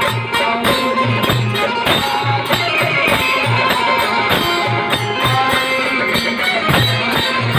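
Instrumental interlude of a Purvi folk song: melody instruments and hand percussion playing a steady beat, with no singing.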